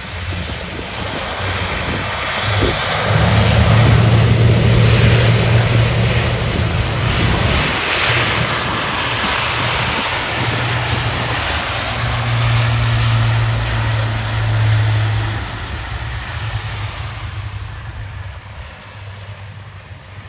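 Airbus A400M's four TP400 turboprop engines at takeoff power as the transport plane passes and climbs away: a loud roar with a deep steady propeller hum, peaking a few seconds in and fading over the last few seconds.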